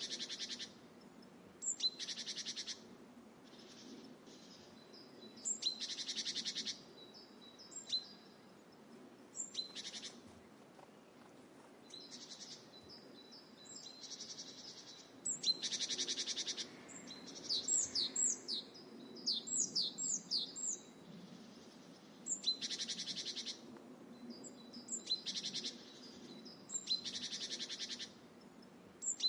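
Songbirds calling over and over: short high chirps and buzzy trills about a second long, with a run of quick falling whistles in the middle. A faint steady low rush of water or wind lies beneath.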